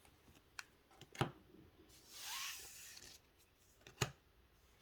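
Pokémon trading cards being handled: a soft rub as cards slide against each other for about a second near the middle, with a few light clicks and taps before and after.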